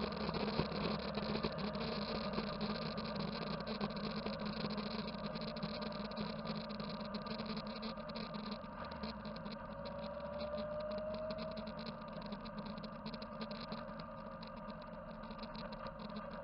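Motorcycle engine running steadily, slowly fading toward the end.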